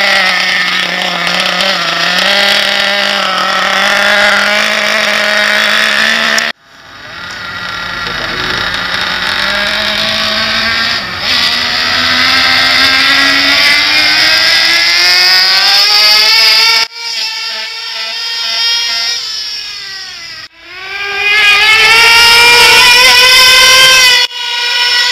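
Avioracing GTX 25 model engine running at high revs with a loud, buzzing note. Its pitch glides slowly upward as it speeds up. The sound breaks off abruptly several times, and each time it comes back climbing in pitch.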